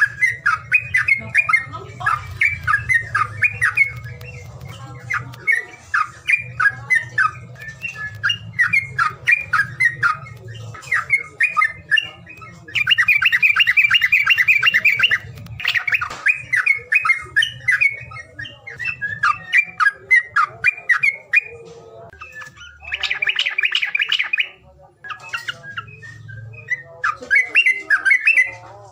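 A songbird's chattering call, rapid series of short sharp notes with two longer, denser trills about 13 and 23 seconds in, over a low hum. It is a calling track played to stir quiet cage birds into singing.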